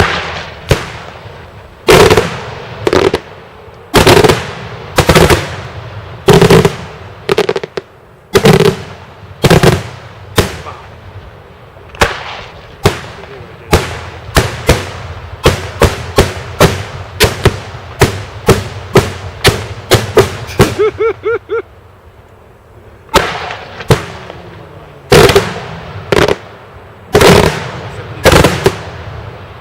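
Daytime fireworks: a barrage of loud bangs, one or two a second. About two-thirds through comes a quick rattling run of small reports, then a brief lull before the bangs start again.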